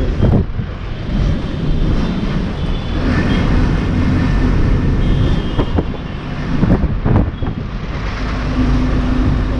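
Motor vehicle engine and road noise, steady and low-pitched, with a few short bumps and a steady hum coming in near the end.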